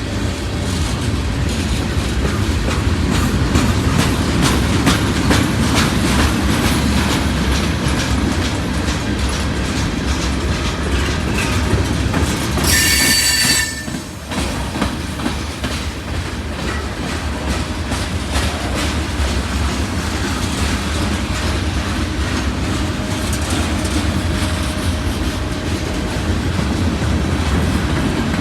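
Freight train rolling past, its wheels clicking steadily over the rail joints over a low rumble. About halfway through, a wheel gives a brief high-pitched squeal.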